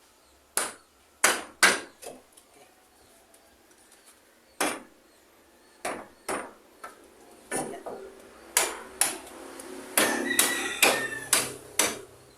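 Hammer striking nails into timber floorboards: a dozen or more sharp, separate blows at uneven spacing, with a quicker run of knocks around ten seconds in.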